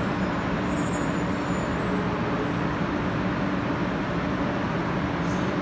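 500 series Shinkansen train easing to a halt at the platform: a thin high whine fades out about two seconds in, leaving the steady hum of the standing train's equipment.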